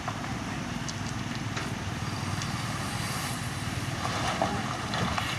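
Heavy construction machine engine running steadily, with a few short knocks over it.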